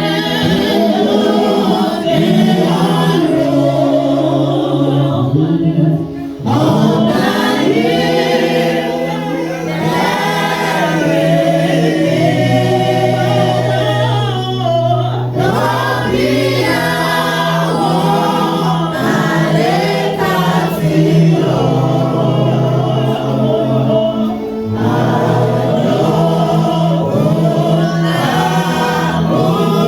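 A choir sings a gospel hymn over long held low accompaniment notes that shift in pitch every few seconds.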